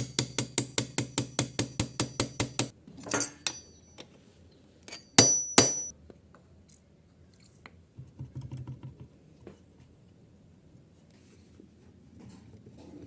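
Rapid, evenly spaced metallic clinking, about six a second for under three seconds, each clink ringing with the same high tone; then a couple of sharp metal knocks about five seconds in and faint handling noise.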